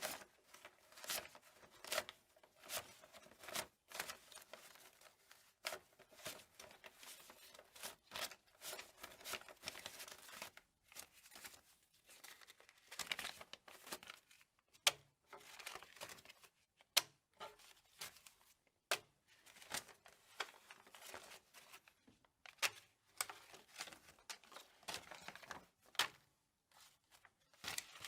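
Paper banknotes being counted by hand: crisp, irregular snaps as each note is flicked over, with papery rustling in between, roughly one or two notes a second.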